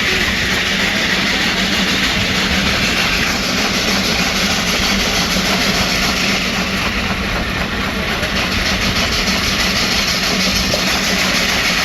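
Nichols and Shepard 20-75 steam traction engine running, belted to a sawmill, with a steady mechanical hum and an even rush of noise and no change in load.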